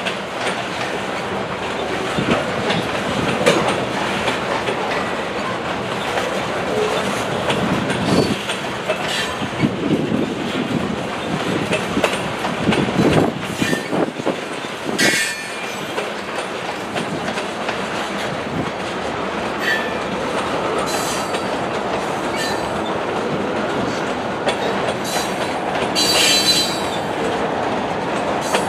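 Freight train of covered hopper and tank cars rolling past, wheels clacking over the rail joints in a steady rumble. Brief high-pitched metal wheel squeals come about halfway through and again near the end.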